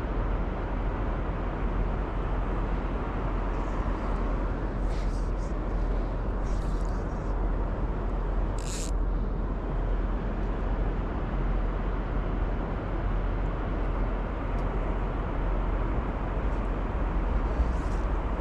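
Steady rushing of river water, with a few brief faint high sounds near the middle.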